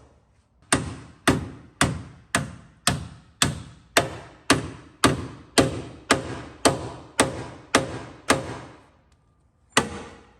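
Hammer striking car body sheet metal in steady blows about two a second, each with a short ring, typical of straightening damaged panels in collision repair. About fifteen blows, a pause, then one more near the end.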